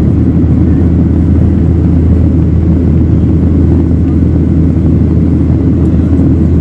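Jet airliner cabin noise: a loud, steady rumble of the engines and airflow heard from inside the passenger cabin.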